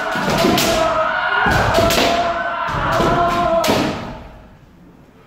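Kendo sparring: loud kiai shouts over repeated sharp cracks and thuds of bamboo shinai strikes and stamping feet. The noise dies away about four seconds in, then a single sharp strike lands at the very end.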